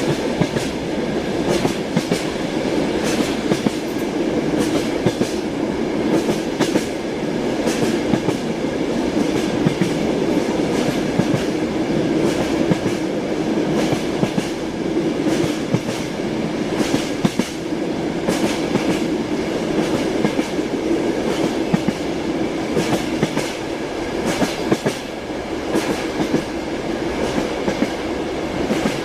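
Passenger train running, heard from inside a compartment: a steady rumble with the wheels knocking on the rails as many short, sharp, irregular clacks.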